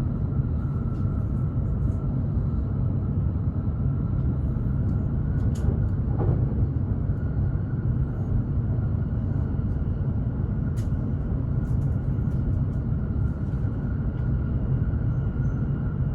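Hokuriku Shinkansen Kagayaki train running, heard from inside the passenger cabin: a steady low rumble with a faint steady whine above it.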